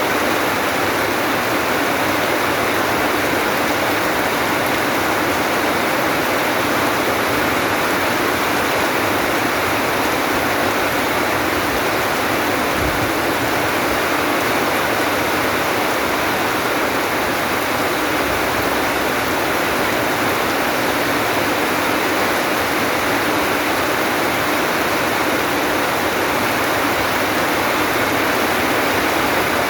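Steady rain falling, an even, unbroken hiss with no separate drops or knocks standing out.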